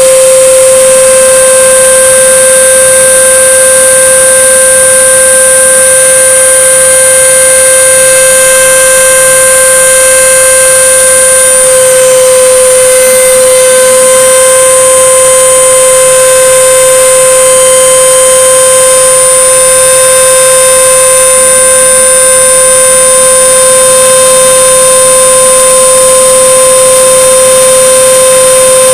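CNC router spindle running with a loud, steady high-pitched whine while milling 5 mm plywood, its pitch shifting slightly about twelve seconds in.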